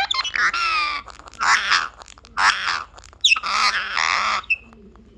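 Pet parrot calling: four loud calls in a little over four seconds, the first and last each about a second long and the middle two shorter.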